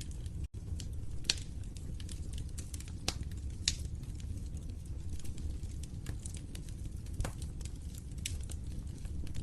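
Wood fire crackling: irregular sharp pops and snaps over a steady low rumble of burning, with a handful of louder pops. The sound cuts out for an instant about half a second in.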